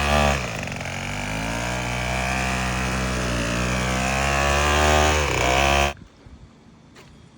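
Weed eater (string trimmer) engine rigged as a kayak outboard, running under throttle. Its revs dip just after the start, climb back, dip again near the end, and then the engine cuts off suddenly about six seconds in.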